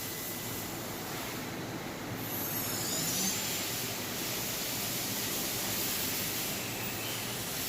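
Mori Seiki Duracenter 5 vertical machining center's CAT40 spindle spinning up toward its top speed of 12,000 RPM: a steady, even whir. A thin high whine rises about two and a half seconds in.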